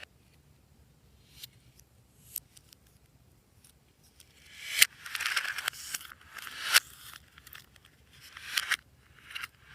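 Slime being worked by hand. A few faint clicks at first, then from about halfway in, sticky crackling squishes broken by sharp pops, three of them loudest.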